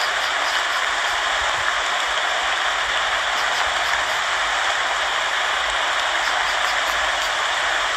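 Steady rain, falling evenly with faint scattered drop sounds and no change in strength.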